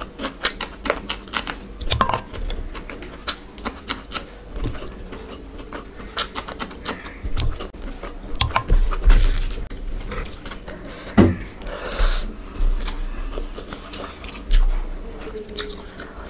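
Close-miked eating sounds: chewing and lip-smacking, full of quick wet clicks, with fingers working rice and curry on the plate.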